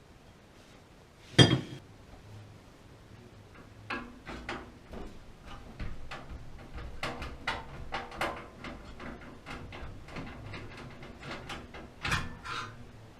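Clatter of parts and tools being handled during a gas water heater repair: one sharp knock about a second in, then a long run of small irregular clicks and knocks, with a louder knock near the end.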